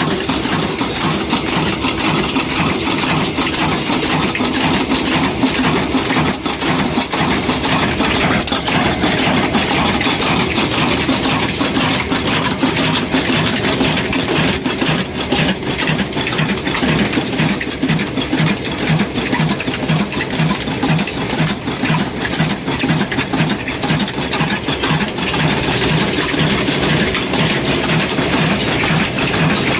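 Old 26 hp, 300 RPM stationary 'black engine' running steadily, with an even, repeating beat.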